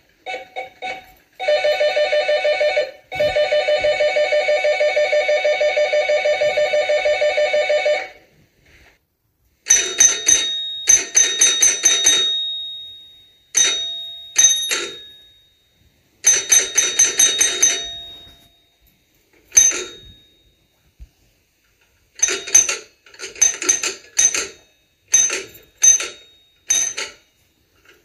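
Doorbell ringing. For the first eight seconds it is a continuous rapid electric ring, broken twice by short pauses. After a pause it comes as repeated clusters of quick rings of varying length, with short gaps between.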